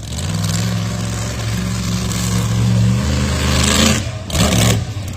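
Monster truck engine running loud and steady, its tone breaking up briefly twice near the end.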